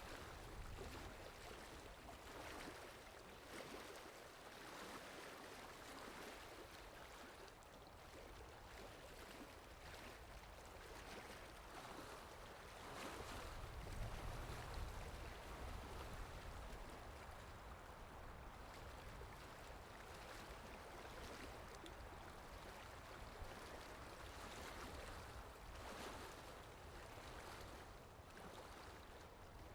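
Faint water sound effect: a steady wash of flowing water that swells and eases every few seconds, with a deeper rumble about halfway through.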